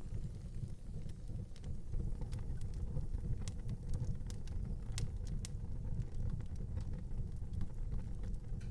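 Wood fire burning in an outdoor fireplace: a steady low rumble of the flames with scattered sharp crackles and pops, one louder pop about five seconds in.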